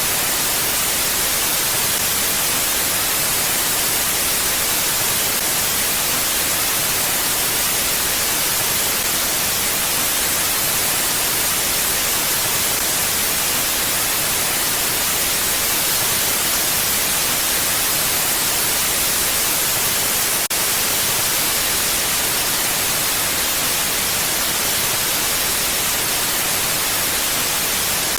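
Steady wind, an even hiss weighted to the highs, with no gusts or lulls.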